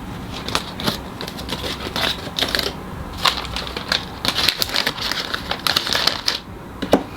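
Spice packets being handled, their packaging crinkling with many quick, irregular clicks and crackles that stop shortly before the end.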